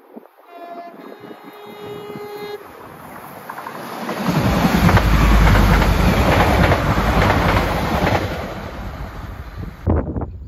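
Two coupled Class 197 diesel multiple units sound a two-tone horn, a short high note then a longer low one. A few seconds later they pass close by with a loud rumble and wheel noise on the rails. The sound cuts off abruptly near the end.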